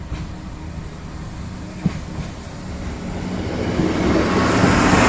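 Train running at a level crossing: a steady low rumble that grows louder over the last two seconds, with one sharp click about two seconds in.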